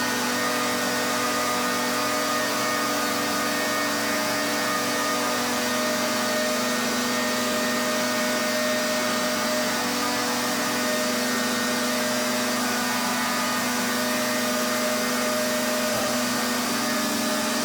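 Pressure washer running steadily: its motor and pump drone at an even pitch under the hiss of the water jet.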